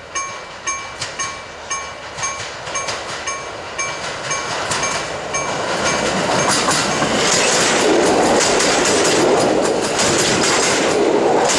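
EN57 electric multiple unit approaching and passing close by: rolling noise that swells from about four seconds in to a loud rush, with wheels clicking over the rail joints. Early on, a ringing ding sounds about twice a second and is drowned out as the train arrives.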